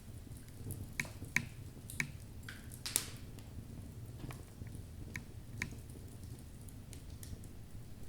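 Wood fire burning in a fireplace: logs crackling and popping with sharp irregular snaps, the loudest about three seconds in, over a low steady rumble of the flames.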